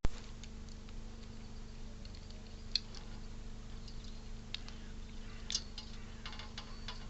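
Light, scattered clicks and scratches of a squirrel working at a bird feeder, over a steady low electrical hum, with one sharp click right at the start.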